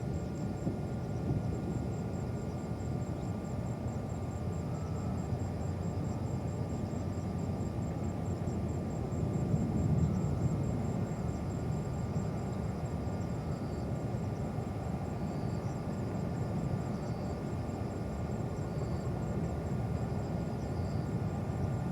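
Airbus A380 with Rolls-Royce Trent 900 engines at takeoff thrust: a steady low jet rumble that swells a little about ten seconds in.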